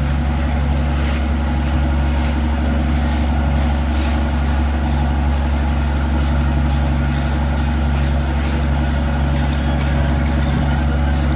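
A large engine running steadily at a constant speed, a deep even hum with no change in pitch.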